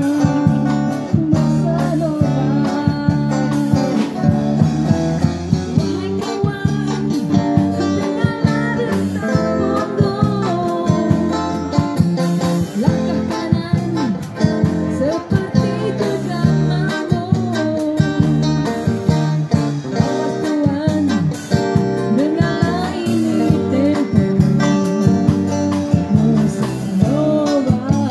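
Live bossa nova song from a busker band: a woman sings the melody over guitar accompaniment with a steady beat.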